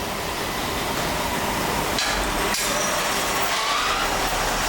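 Steady factory machinery noise with a faint whine, and two sharp knocks a little over half a second apart about two seconds in.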